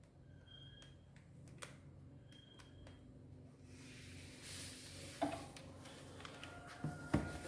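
Faint clicks and knocks of a Canon LBP2900 laser printer's parts being handled and fitted back together, with a soft hiss from about halfway and a few sharper knocks near the end.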